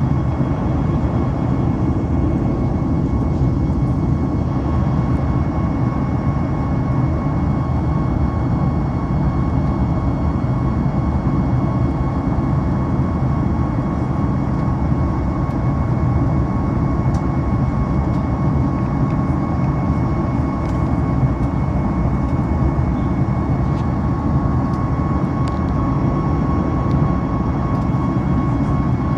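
Steady cabin noise of a Boeing 737 MAX airliner: an even low rumble with a faint steady whine above it, unchanging throughout.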